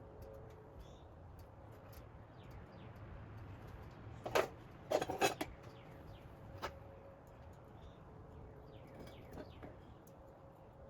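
A cluster of sharp clicks and clatters, like tools and loose metal parts being handled, about four to five and a half seconds in, with one more click shortly after.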